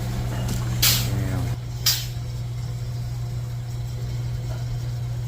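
Steady low hum of a running rooftop HVAC unit, with two short bursts of hiss about a second apart near the start.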